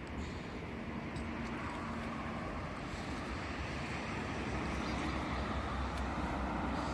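Honda CB400 Super Four's inline-four engine with a Trickstar aftermarket muffler running steadily, growing slowly louder.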